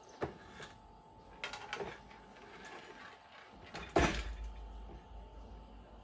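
A few sharp clicks and knocks of parts or tools being handled, the loudest about four seconds in, over a faint steady hum.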